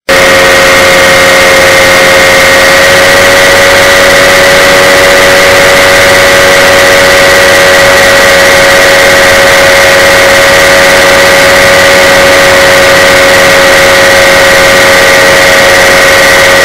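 Paramotor engine and propeller running steadily, a loud, even drone holding one pitch.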